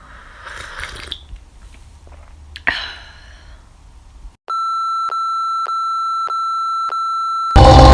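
An electronic beep: a steady, high, pure tone lasting about three seconds in the second half, broken by short gaps about every half second. Before it there are only faint sounds and one brief sharp tap; music cuts in at the very end.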